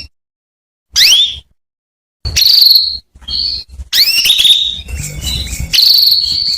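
Domestic canary calling, presented as a female canary calling to the males. Two short upward-sweeping whistled calls, then from about two seconds in a busy run of chirps, twitters and held high notes.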